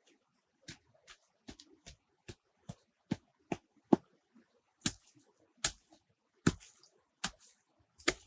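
A run of sharp knocks or chops, a little over one a second and unevenly spaced, a few followed by a brief scraping hiss.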